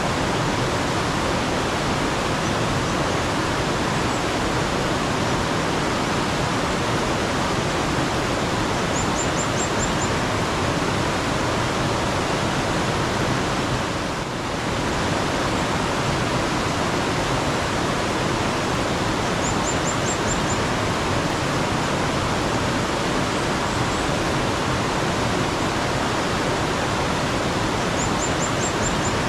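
Steady rush of flowing mountain stream water. Three times, about ten seconds apart, a bird gives a short run of quick, high chirps.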